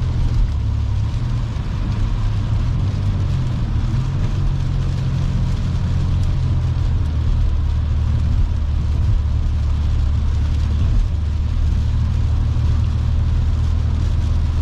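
Steady low drone of a car driving at highway speed on a wet road, heard from inside the cabin: engine and tyre noise with a lighter hiss above it.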